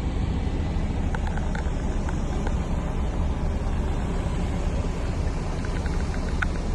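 MAN TGS 33.440 truck's inline six-cylinder diesel engine idling with a steady low rumble, with a few faint light ticks.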